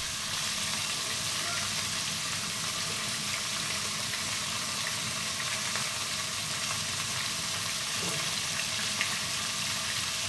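Onion, tomatoes, green chillies and spices in oil frying in a pot on the stove, a steady even sizzle.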